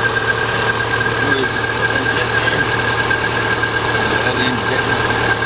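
2000 Subaru Impreza 2.2 flat-four engine idling steadily with a constant high whine over it. The car is being diagnosed for a misfire and rough running.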